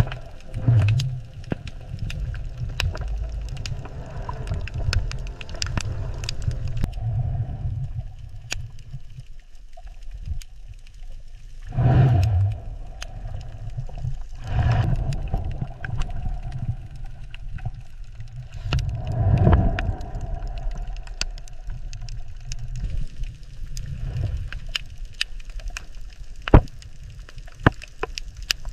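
Underwater ambience: a steady low rumble with scattered clicks and crackles, swelling louder three times in the middle, around 12, 14.5 and 20 seconds in.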